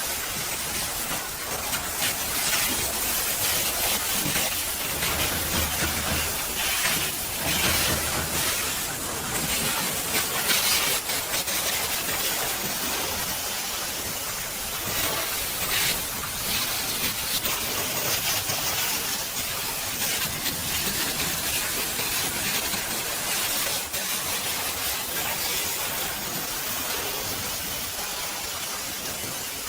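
High-pressure washer spray hissing as the jet blasts against the truck, rising and falling in loudness as the jet moves over the surface.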